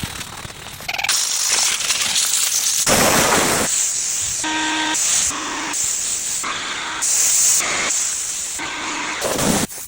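Pressure-washer water spray hissing against a car, heard in short segments that start and stop abruptly.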